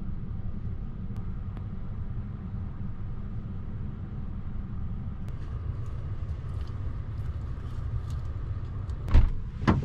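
Steady low rumble of a motor vehicle running, with two sharp knocks near the end.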